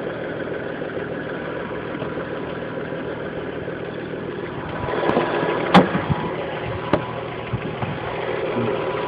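2001 Audi S4's 2.7-litre twin-turbo V6 idling steadily. Two sharp clicks sound over it about six and seven seconds in.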